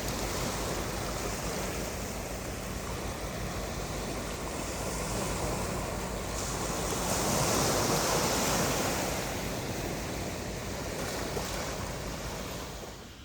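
Surf washing onto the beach with wind on the microphone, a steady rush that swells about halfway through and fades out near the end.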